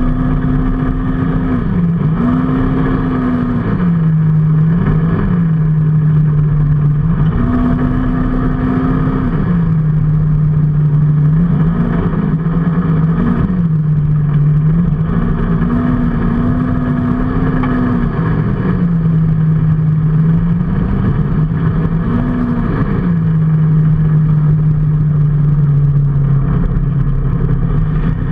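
Motorcycle engine running under way, its pitch repeatedly climbing, holding for a second or two, then dropping back as the throttle is opened and closed. Steady rushing wind and road noise runs underneath.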